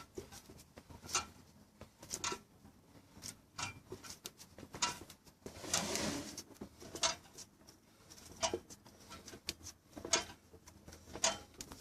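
Sharp metallic knocks, roughly one every second or so, from the Mitsubishi 4A91 engine's bottom end as the crankshaft is rocked by hand at top dead centre with the spark plugs out. This is a check for the play that gives piston knock, with a longer scraping rustle about halfway through.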